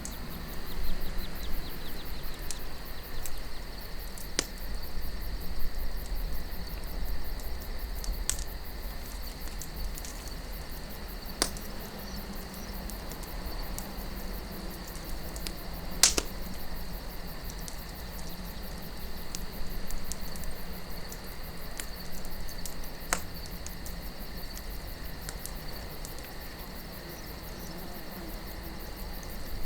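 Wood campfire crackling, with scattered sharp pops, the loudest about 16 seconds in, over a low rumble of wind. A steady high chirring runs underneath.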